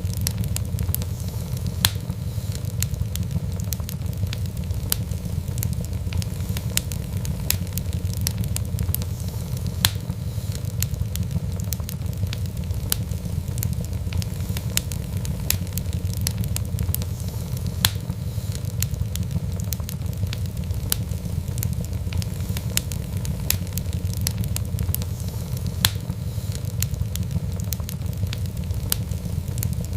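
Wood fire in a fireplace crackling and popping over a steady low rumble. A louder pop comes about every eight seconds.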